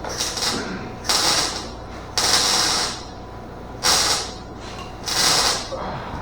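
MIG welder laying a series of short tack welds: five bursts of crackling hiss, each under a second long, about a second apart.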